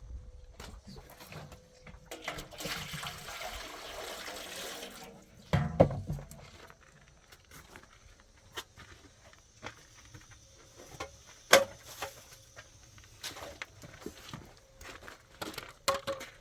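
Water poured out for about three seconds, followed by a heavy thump and then scattered knocks and clicks of things being handled.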